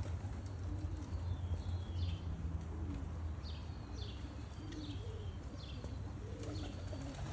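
Pigeons cooing, repeated low calls every second or so, mixed with short high falling chirps, over a steady low hum.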